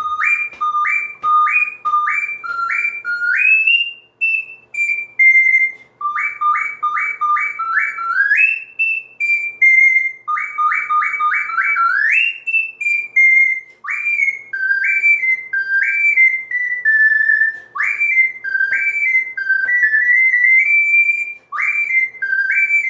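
Soprano C ocarina playing high in its range: fast runs of repeated octave leaps that imitate birdsong, each run ending in a slide up to a top note, then short phrases that step down.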